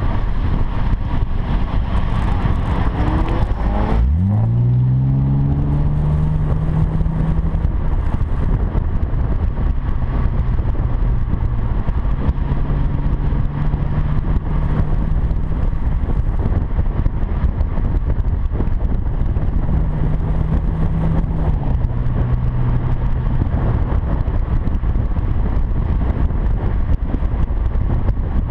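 Acura TL V6 exhaust through a quad-tip Magnaflow catback on the move: a hard pull for the first four seconds, then a gear change and the engine settles into a steady drone whose pitch steps down and up a few times as the car cruises.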